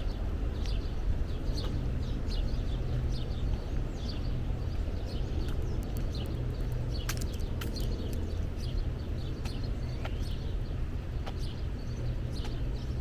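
Forest birds chirping and calling over and over, short high notes that drop in pitch, over a steady low rumble.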